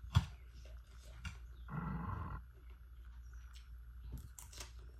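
Close-up eating sounds: wet chewing and smacking of noodles and greens, with a sharp tap just after the start and a short low hum-like mouth sound about two seconds in.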